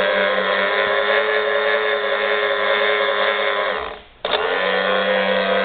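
Mill drill power feed table motor running with a steady electric whine. About four seconds in it winds down briefly, then starts again abruptly with a click, as when the feed is switched off and back on or reversed.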